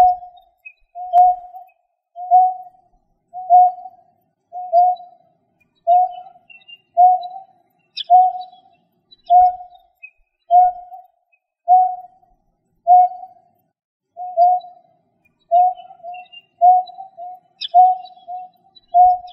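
A bird's call: one short, low whistled note repeated steadily about every second and a quarter, with faint higher chirps now and then.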